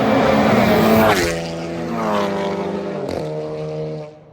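Drag racing car passing at full throttle down the strip, with loud engine and exhaust noise. Its pitch drops sharply as it goes by about a second in, and the engine note dips briefly about three seconds in. The sound cuts off suddenly near the end.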